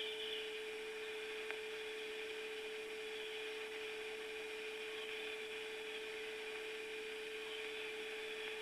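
Steady hum at one pitch over an even hiss, the background noise of an old recording between narration lines, with a faint click about a second and a half in.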